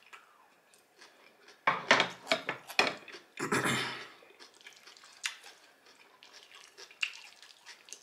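Close-miked crunchy chewing of a mouthful of finely chopped salad with raw cabbage. A run of loud crunches comes in the first half, then quieter wet mouth clicks follow.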